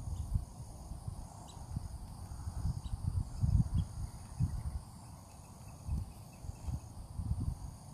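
Wind buffeting the microphone in uneven gusts. Behind it, insects in the grass keep up a high, pulsing chorus.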